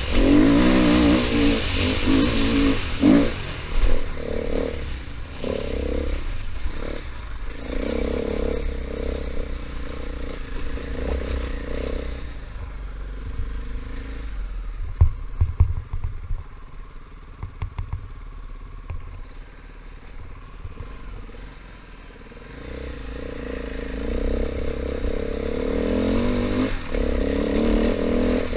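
KTM 500 EXC single-cylinder four-stroke dirt bike engine pulling under throttle. About twelve seconds in it drops to a low, quieter running, with a few clattering knocks around the middle. It then picks up and pulls steadily again over the last few seconds.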